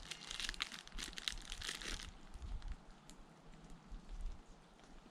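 Crinkling plastic snack-bar wrapper being handled, a dense crackle for about two seconds, then fainter scattered crinkles.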